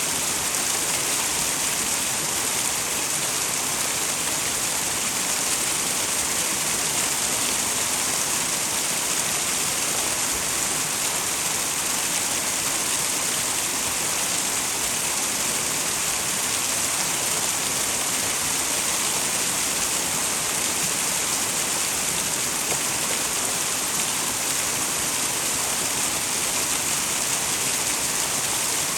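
Small twin waterfall splashing into a mountain stream: a steady, even rush of falling water with a bright hiss.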